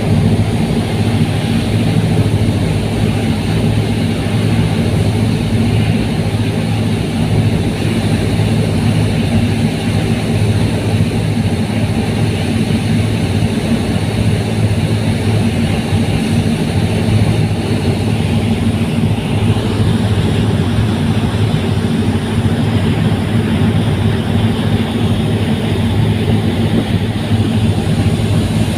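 Fast passenger ferry's engines running steadily at a constant speed, a loud even drone with a hiss of noise above it.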